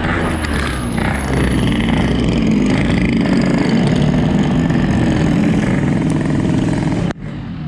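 Yamaha RX-King 135's single-cylinder two-stroke engine running under way, with wind and road noise around it. The sound drops off sharply about seven seconds in.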